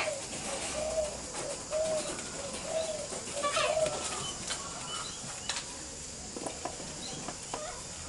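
A bird cooing: about five short, low, arched notes roughly a second apart, with a few higher chirps around the fourth one, then faint light clicks.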